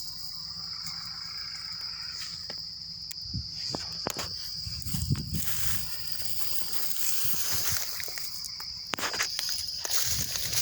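Insects calling in a steady, high-pitched drone, with scattered faint knocks and rustles.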